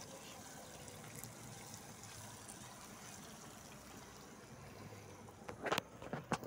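Faint liquid trickling, as of a pot of soup cooking, with a few sharp clicks a second or so before the end.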